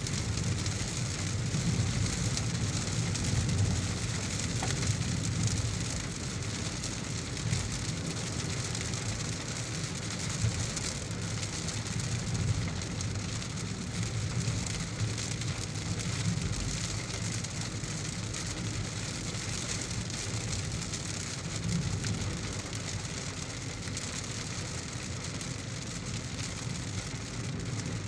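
Heavy rain falling steadily on a moving car, with a steady low rumble underneath.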